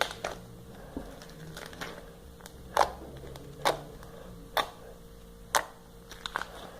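Glossy slime being squeezed and worked in the hands, giving sharp clicks and bubble pops, the loudest coming about once a second through the middle.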